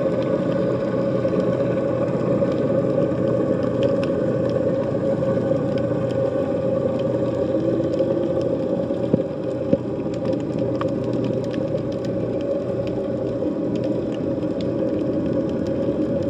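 Underwater sound in the Mediterranean Sea: a steady drone of several held tones, strongest in a mid-low hum, with scattered faint clicks.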